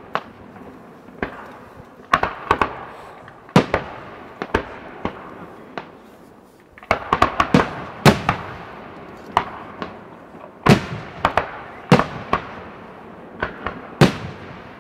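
Aerial display fireworks: shells bursting in irregular, quick succession, the sharp bangs coming in clusters with echoing tails between them.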